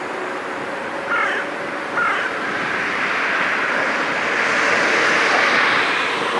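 A steady rushing noise with a faint low hum underneath, swelling louder a few seconds in. Two short bird calls with a falling pitch cut through about a second and two seconds in.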